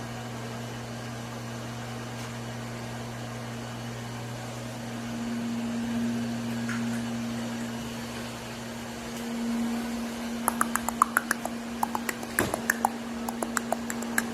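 Vacuum cleaner running with a steady low hum. The deepest part of the hum drops out about nine seconds in, and near the end it gives a quick, irregular run of sharp clicks and rattles.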